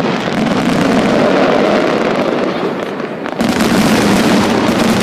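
Fireworks display: aerial shells bursting in a dense, continuous barrage of bangs, with a fresh loud volley starting about three and a half seconds in.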